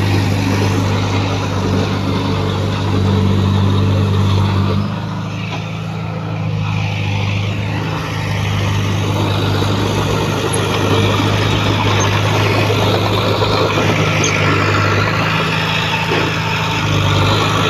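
Heavy diesel engine of earthmoving equipment running. It eases off about five seconds in and comes back up a few seconds later.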